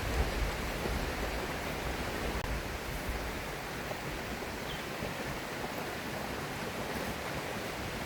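A river rushing steadily, an even noise of flowing water.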